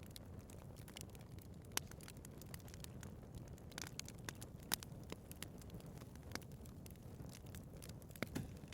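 Wood fire burning in a fireplace: a steady low rumble of flames with frequent crackles, and two louder sharp pops about two and five seconds in.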